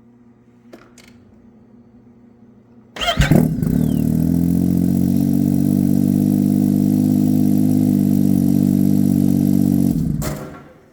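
2018 Yamaha Sidewinder's turbocharged three-cylinder four-stroke engine started about three seconds in, idling steadily for about seven seconds, then shut off and winding down. It runs with the oil return line disconnected, pumping the old oil out of the tank.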